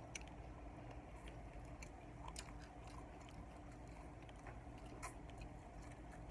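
Quiet chewing of food, with a few short, crisp crunchy bites scattered through it, over a low steady hum.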